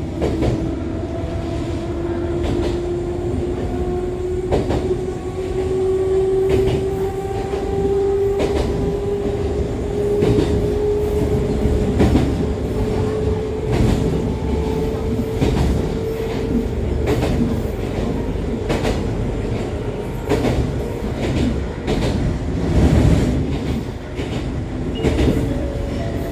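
Running sound inside an Echizen Railway MC6101 railcar with MT54 DC series-wound traction motors, the car the uploader labels as having an unusual noise. A motor and gear whine climbs slowly and steadily in pitch, then fades out about two-thirds of the way through. Wheels click over rail joints underneath.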